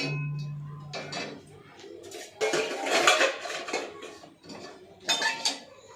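Kitchen pots, pans and metal utensils being handled and set down, clattering in several spells. It opens with a sharp knock that rings briefly.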